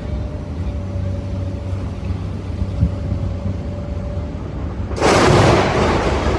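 Demolition excavator's diesel engine running steadily, then about five seconds in a loud crash lasting over a second as the metal girder it holds is dropped into the metal recycling skip.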